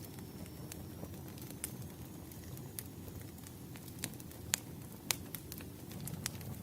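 Wood fire crackling: irregular sharp pops and snaps from the burning logs over a steady low rumble of the flames, with a faint thin high whistle gliding slowly upward.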